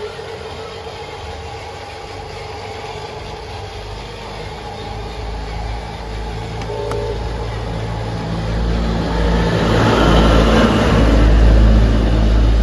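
A low engine rumble that sets in about five seconds in and grows steadily louder, with a rush of noise near the end.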